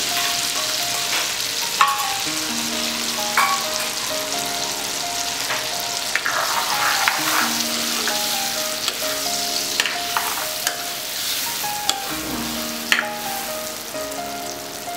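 Oil sizzling steadily in a nonstick kadai as boiled potatoes fry in a wet garlic and Kashmiri red chilli paste. A spatula stirs them, with sharp knocks against the pan every few seconds. Soft background music plays underneath.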